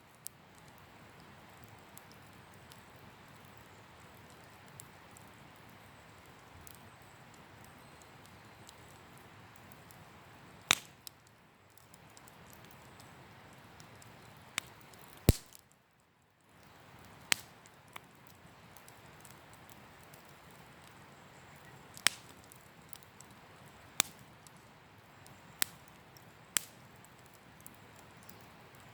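Wood campfire crackling: a steady low hiss broken by sharp pops and cracks at irregular intervals, a few of them loud.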